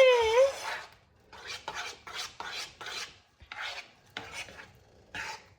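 Rhythmic rasping strokes in the kitchen, about three a second, with a short gap partway through.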